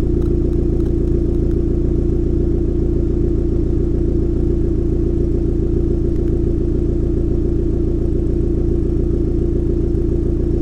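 Seventh-generation non-VTEC Honda Civic's four-cylinder engine idling steadily through a straight-through exhaust with the muffler and resonator cut out, during its warm-up after sitting unstarted for two days.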